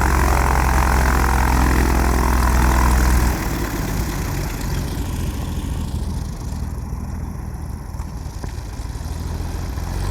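An engine idling steadily, its low hum dropping in level about three seconds in and building again near the end.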